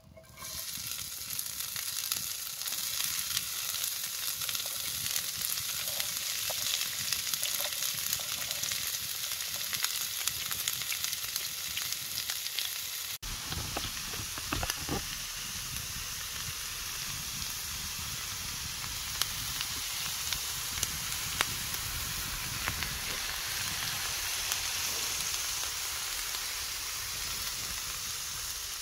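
Food frying in a pan on a wood stove: a steady sizzle with small crackles. The sound briefly drops out about thirteen seconds in.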